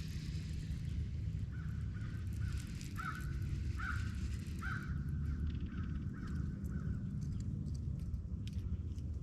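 A bird, likely a crow, calling in a series of short repeated calls from about a second and a half in until about six and a half seconds, over a steady low rumble.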